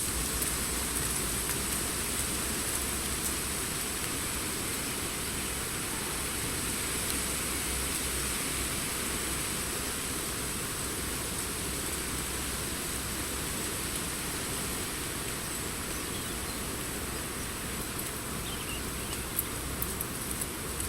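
Steady hiss of wind through forest foliage, with a few faint clicks near the end.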